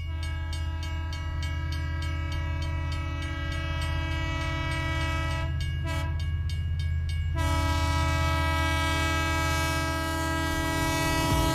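Train horn held on one steady chord, with a regular clicking for the first seven seconds or so.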